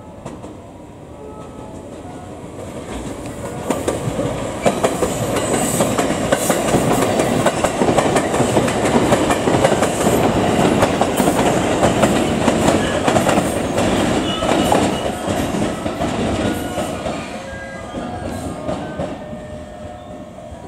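Suburban electric multiple-unit train passing close by over turnouts and rail joints: a loud, fast clickety-clack of wheels striking the points and joints over a rumble. It builds from about three seconds in, peaks in the middle and fades over the last few seconds.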